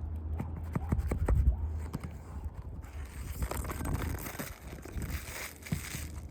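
Asphalt shingles being worked by hand: a few sharp knocks in the first second and a half, then several seconds of scraping and rustling.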